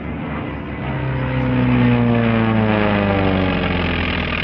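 Radial-engined propeller airplane flying past. Its engine and propeller note grows louder, then falls steadily in pitch as it goes by.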